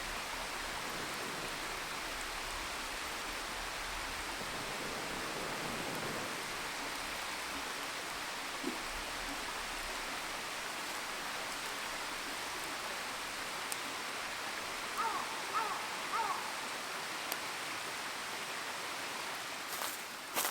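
Steady rushing of flowing water, even and unbroken, with three short chirps about fifteen seconds in and a few sharp footstep-like clicks at the very end.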